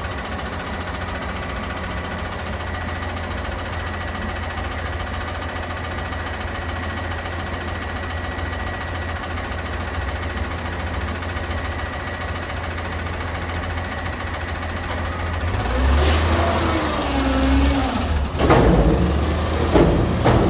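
Garbage truck engine idling steadily. In the last few seconds it gets louder, with several sharp clanks and knocks and a wavering whine.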